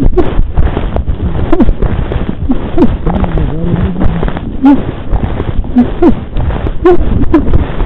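A person gasping and groaning in short, strained breaths about once a second, with a loud muffled rumbling noise over the microphone. These are the labored breaths of a skier buried under avalanche snow.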